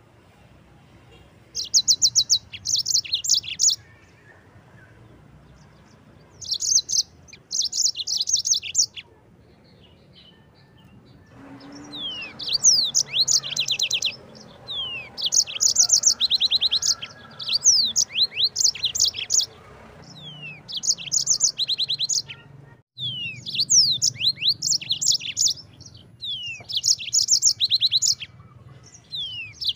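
Yellow-fronted canary (Mozambique singer) singing: rapid high trilled phrases in short bursts, spaced by pauses at first, then a near-continuous rolling song mixed with quick sweeping notes from about a third of the way in.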